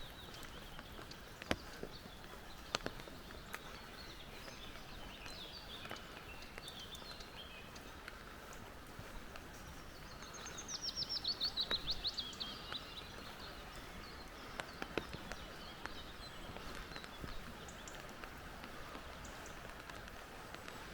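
Forest birds calling over a steady faint hiss. About halfway through, one bird gives a loud, rapid trill of notes that falls in pitch over about two seconds. A few sharp ticks are scattered through.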